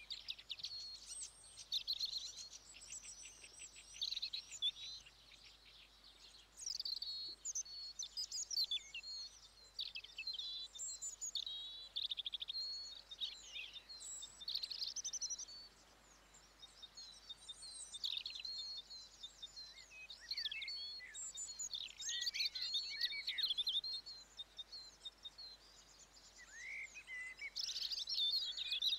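Songbirds chirping and trilling, several high calls overlapping, including a fast trill about two seconds in, with brief quieter gaps.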